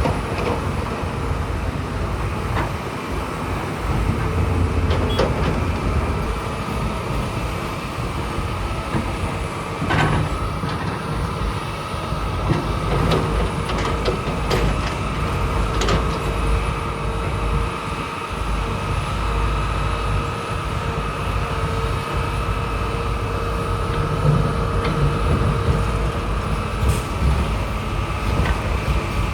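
Bulldozer's diesel engine running steadily under load, with several sharp clanks and knocks scattered through it.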